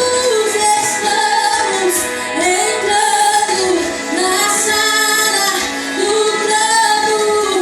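Female voice singing a worship song over instrumental accompaniment.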